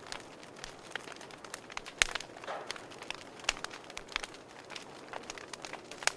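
Wood fire burning in a fireplace: irregular sharp crackles and pops over a soft hiss, the loudest pop about two seconds in.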